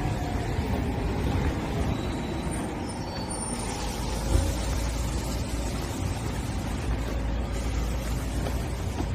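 Steady low mechanical rumble with one sharp thump about four seconds in.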